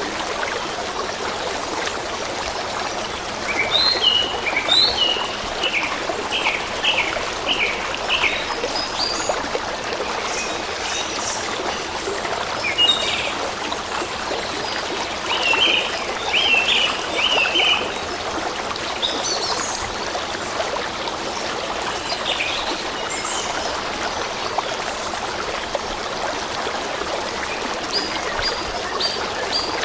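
A stream of water running steadily, with small birds chirping in short bursts of quick notes over it, recurring every few seconds.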